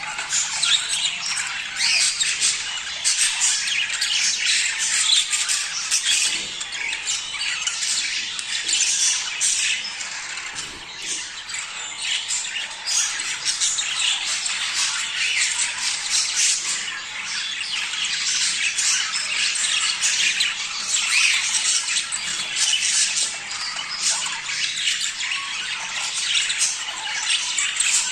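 A flock of budgerigars chattering and squawking without pause, many birds calling over one another.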